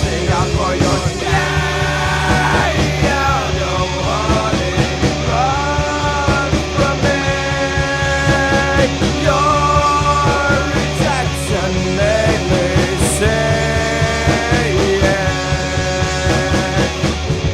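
Rock song: drums and bass under a held, gliding lead melody, either sung without words or played on lead guitar.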